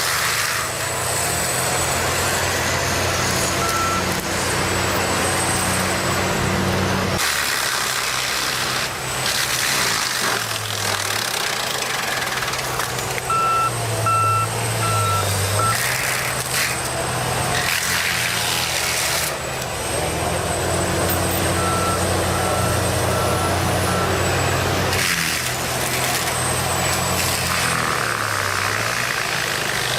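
Heavy machinery engines running, with a reversing alarm beeping in short runs of evenly spaced beeps several times; the engine sound changes abruptly a few times as the footage cuts between machines.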